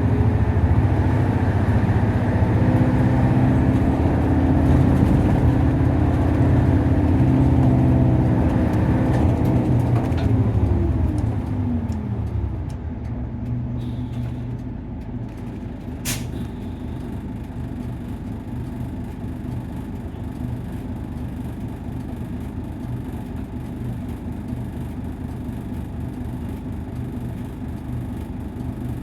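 Nissan Diesel KC-UA460LSN bus engine, heard from inside the cabin, pulling loudly, then dropping in pitch and quietening to a steady idle-level hum as the bus slows, about ten to twelve seconds in. A brief sharp sound comes about sixteen seconds in.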